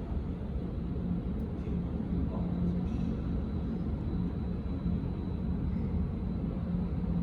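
Steady low rumble with a faint hum, the kind of constant background noise of an airport terminal or a nearby jet engine.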